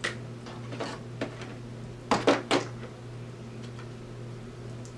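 Light clicks and taps from handling makeup items, a blush compact and brush, with three sharp ones close together about two seconds in, over a steady low hum.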